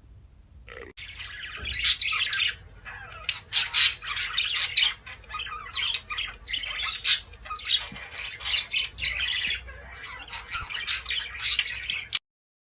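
Birds calling in quick, irregular succession: many short, high-pitched calls and chirps, starting about a second in and cutting off abruptly near the end.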